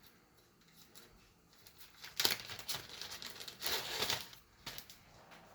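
Hands handling the grill's temperature probe and its wire: two louder scraping handling noises about two and four seconds in, and a few light clicks near the end.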